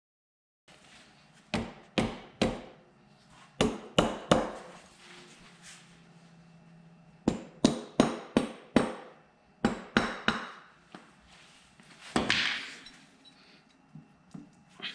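Hammer tapping on engine parts during a motorcycle engine teardown: sharp blows in short runs of three to five, about three a second, with pauses between the runs. A longer scraping sound comes about twelve seconds in.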